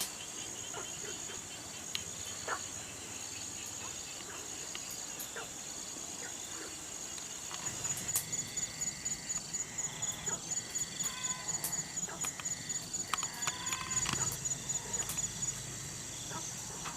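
Insects chirping steadily in a high, thin chorus. About eight seconds in, a louder rhythmic pulsing call of roughly four to five pulses a second joins, then stops near the end.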